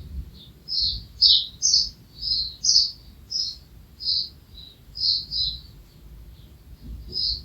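Bird chirping: a rapid series of short, high chirps, about two a second, with a faint low rumble underneath.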